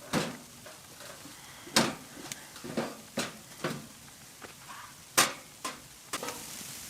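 Irregular sharp knocks and clatters of firewood being handled in a tent with a wood stove, about nine in all, two of them louder than the rest. A steady hiss comes in near the end.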